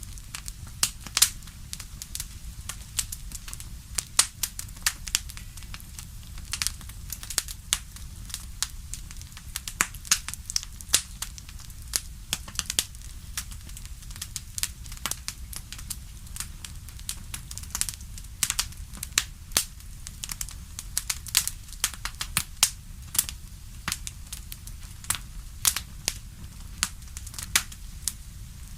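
Fireplace fire crackling, with frequent irregular sharp pops over a low steady rumble.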